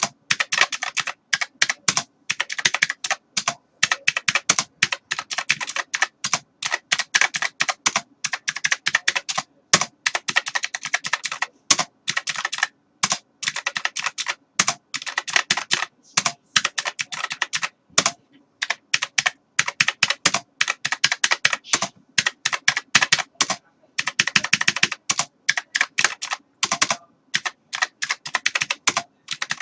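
Typing on a computer keyboard: fast, continuous runs of key clicks broken by brief pauses of under a second.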